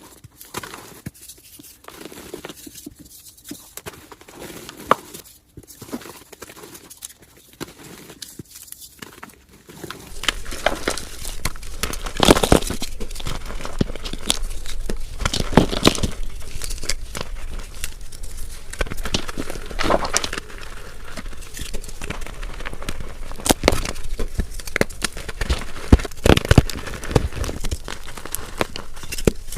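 Blocks of gym chalk being crushed, crunching and crumbling. Quiet, scattered crackles for the first third, then louder, denser crunching with sharp cracks.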